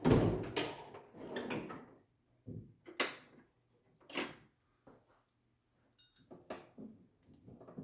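Metal hand tools clanking and clattering as someone rummages for a spanner: a sharp knock at the start, about two seconds of clatter, then a series of separate short clanks.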